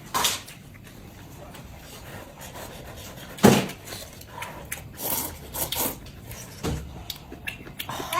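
Close-miked eating of noodles: several short slurps and mouth sounds, the loudest about three and a half seconds in, with scattered small clicks.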